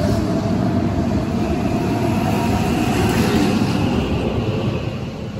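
Keihan 7200-series electric train accelerating out of the station: steady rumble of wheels and running gear with a whine rising in pitch, starting to fade near the end as the train moves away.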